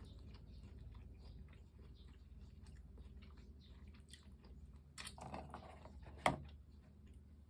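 Close-up chewing of fried chicken: a run of soft, wet crunching clicks, with a louder crunchy bite about five seconds in and one sharp click a moment later.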